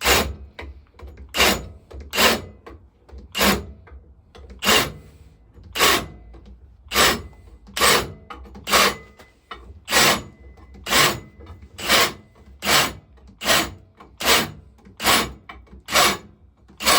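A hand file worked in firm, even strokes across a metal pipe, about eighteen rasping strokes a little under a second apart, quickening slightly towards the end. This is smoothing off the sharp edges of freshly drilled water holes.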